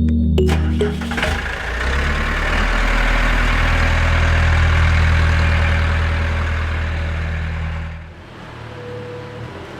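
A DIY mini tractor's small engine running steadily, taking over from plucked background music about a second in, and dropping to a quieter level after about eight seconds.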